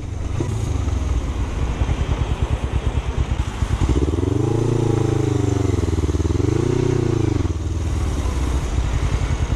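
Motorcycle engine running, its revs rising and falling twice in the middle before settling back to a steady beat.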